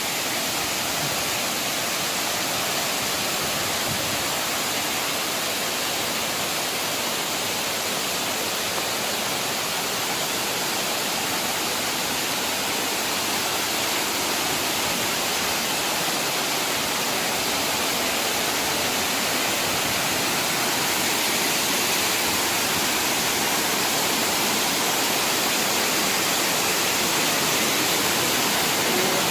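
Waterfall: a steady rush of falling water, growing a little louder in the second half.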